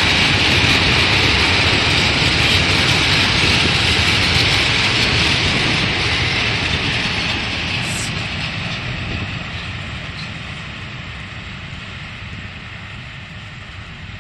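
Freight train's open wagons rolling past on the rails: a steady rumble and clatter of wheels that begins to fade about halfway, as the last wagon passes and the train draws away. There is one short high squeak about eight seconds in.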